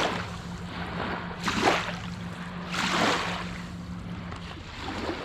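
Water washing against a sailboat's hull, swelling and fading about every second and a half, over a steady low hum that stops near the end.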